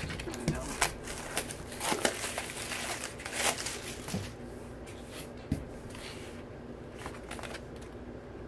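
Album packaging being handled and opened: crinkling, rustling and sharp taps, busy for the first four seconds or so, then only the odd tap.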